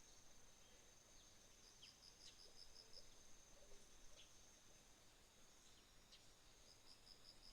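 Faint autumn morning insect chorus: a steady high-pitched trill throughout, with a short run of rapid evenly spaced chirps twice. Scattered brief bird chirps are heard over it.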